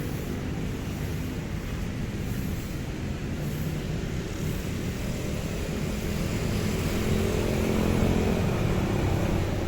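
Street traffic: motor vehicles running steadily, with the engine sound growing a little louder in the last few seconds.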